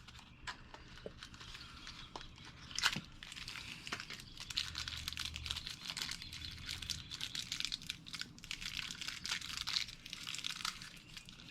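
Hands handling and greasing a new wheel bearing for the mini bike's rear hub: irregular crinkling and crackling, with a sharp click about 3 s in.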